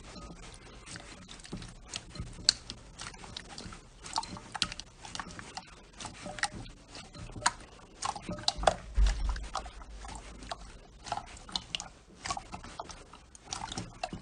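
Slime being handled by hand, making a dense run of small irregular clicks and pops.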